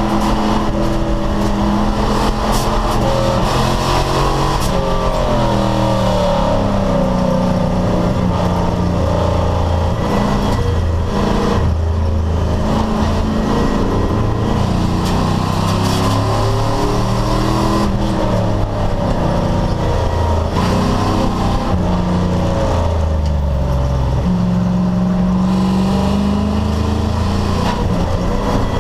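Race car engine running hard under racing conditions, its pitch rising and falling over and over as it accelerates and backs off.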